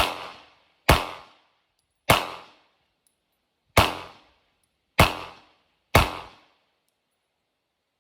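Glock 19 9mm pistol firing six single shots at an uneven pace, roughly a second apart with a longer pause after the third, each shot followed by a short echo.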